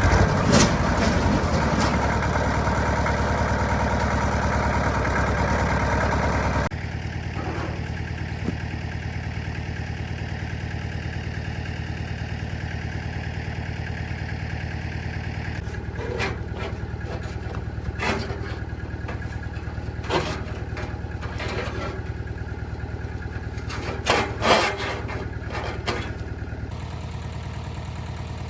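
A vehicle engine running steadily, dropping suddenly to a quieter, lower running about a quarter of the way in. Several sharp knocks or clanks sound over it, the loudest near the end.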